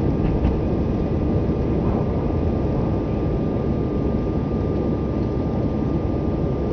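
Airbus A319-111 cabin noise during the climb after take-off: the steady roar of its CFM56 turbofans at climb thrust and the rushing air, heard from inside the cabin, with a thin steady high tone running through it.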